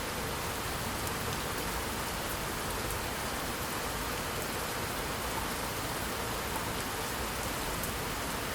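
Steady rain falling, an even hiss without a break and without thunder.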